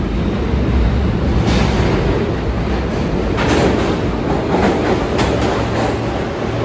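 New York City subway train running through the station with a loud, steady rumble, its wheels clacking repeatedly over rail joints.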